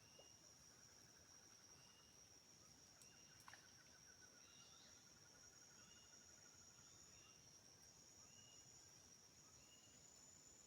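Faint forest insect chorus: a continuous high, steady insect drone, with short chirps repeating about once a second and a rattling trill in the first half.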